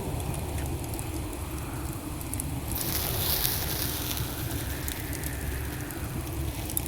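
Wood fire in a fireplace burning, with a steady low rumble of the flames and scattered small crackles. About three seconds in, a stretch of brighter hissing lasts a second or two.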